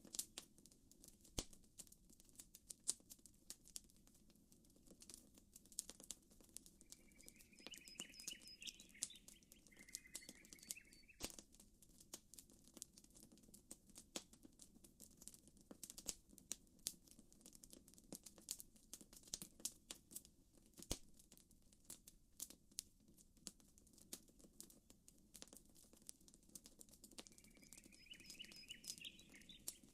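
Campfire crackling: frequent sharp pops and snaps, irregular in timing, over a soft low steady rush. A bird calls in a short chirping phrase about a quarter of the way in and again near the end.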